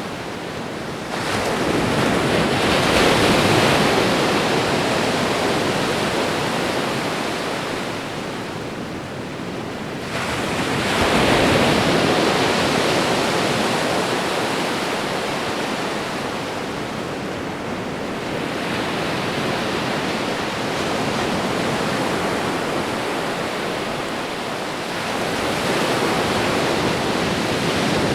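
Ocean waves breaking and washing on a shore, in slow surges that build and ebb, three big swells about ten seconds apart.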